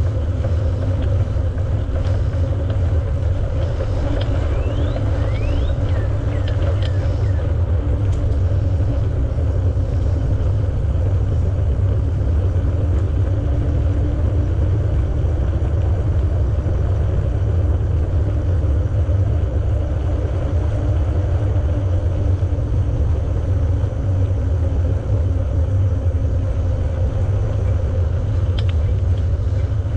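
Steady low wind rumble on the microphone with the hum of bicycle tyres rolling along a paved path, unbroken throughout.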